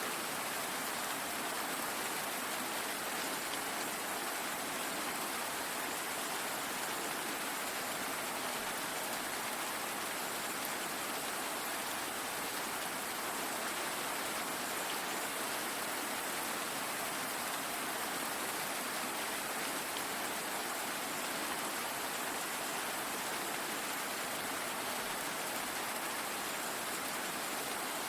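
Steady rainfall: an even hiss of many drops with no single drops or thunder standing out.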